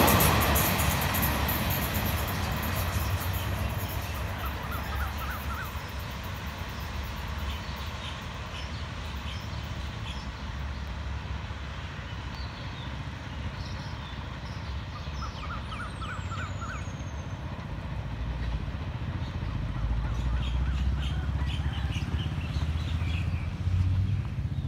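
Thaksin Special Express passenger train rolling away after passing, its rumble fading over the first several seconds. Quiet outdoor ambience follows, with a few short bird chirps. A low rumble swells up again near the end.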